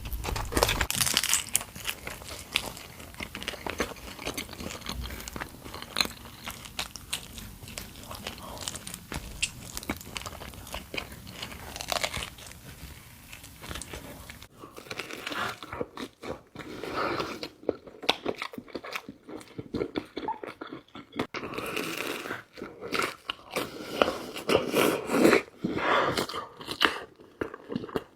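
Close-miked eating of pizza: crunchy bites into the crust and wet chewing, with dense crackling clicks. About halfway through the background hiss drops out and the chewing becomes fuller and louder.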